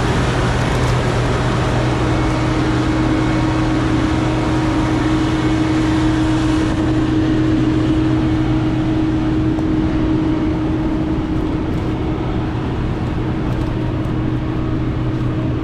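Large farm machine's engine running at a steady speed, a constant droning hum; the higher hiss falls away about seven seconds in.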